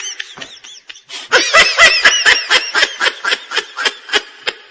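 Laughter sound effect: high-pitched giggling laughs, quieter in the first second and then a loud run of quick laugh pulses, about four or five a second.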